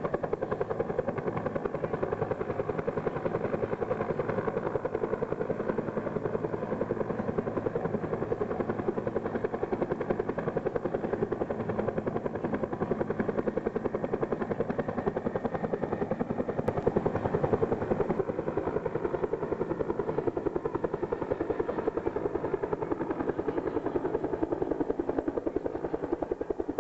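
Bell HH-1N Huey helicopter hovering, its two-blade main rotor beating steadily and rapidly.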